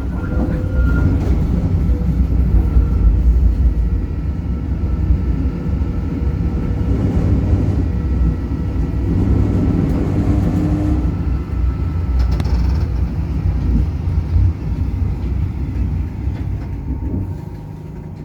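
Zürich city tram running on its rails: a steady low rumble of wheels and running gear with a faint motor whine, fading away near the end.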